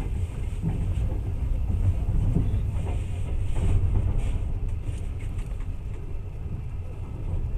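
Passenger train running, a steady low rumble with faint rattles, as heard from inside the carriage.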